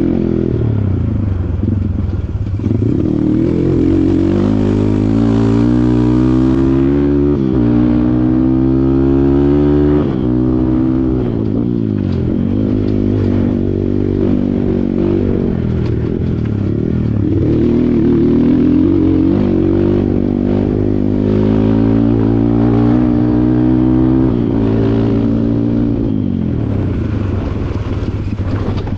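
Kawasaki KLX140 dirt bike's single-cylinder four-stroke engine under way, its pitch climbing and dropping again and again as the throttle is opened and eased off through the gears.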